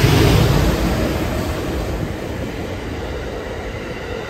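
Train passing close by on the near track: a loud rush peaks about a second in as the hauling locomotive goes by, then new 521-series electric cars, moved unpowered, roll past with a steady rumble of wheels on rail.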